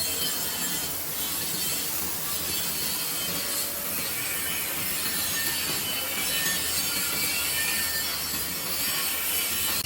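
Electric arc welding on a vertical-position (3G) test joint: the arc gives a steady crackling hiss.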